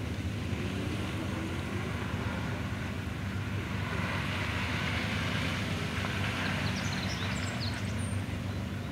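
A vehicle engine running steadily, with a broad hiss that swells about four seconds in and fades again.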